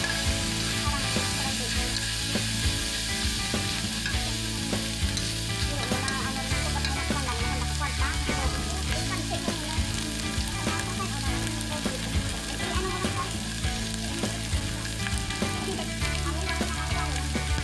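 Ground meat and sliced hotdogs sizzling in a hot frying pan, stirred and scraped with a metal spatula, with scattered clicks and scrapes of the spatula against the pan.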